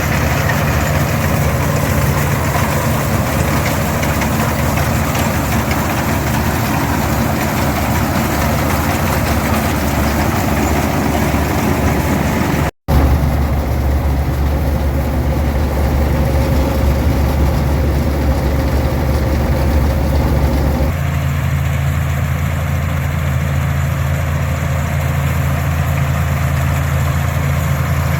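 International Harvester 460 tractor's diesel engine running steadily, with the PTO-driven pull-type combine working behind it. There is a brief gap about halfway through, and the engine tone shifts abruptly about two-thirds of the way through.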